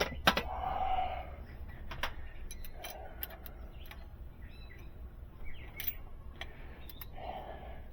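Hand tools clicking and clinking against metal on a diesel engine's overhead while valves and Jake brakes are adjusted: scattered sharp metallic clicks, several close together about two to three seconds in.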